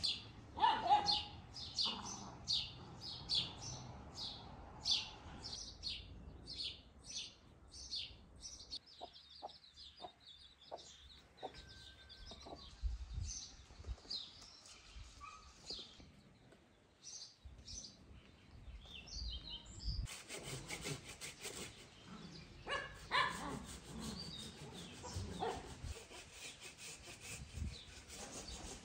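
Birds chirping outdoors in a steady series of short, high calls about twice a second, with a few quick clicks about ten seconds in and scattered calls later on.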